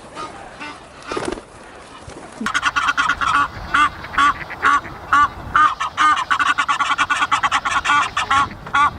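A flock of ducks and geese calling, with loud quacks and honks in quick succession. The calls start about two and a half seconds in.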